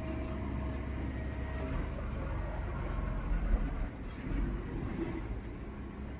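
Steady low vehicle rumble, with a few slightly louder uneven patches about midway.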